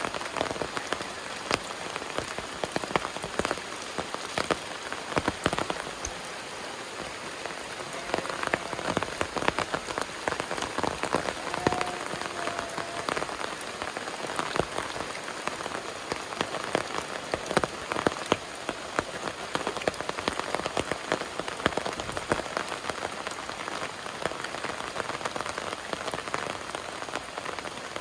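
Rain falling steadily, with many separate drops striking close by in a dense patter.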